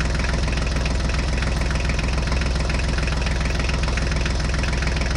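Tractor engine running steadily, with an even diesel-like knock.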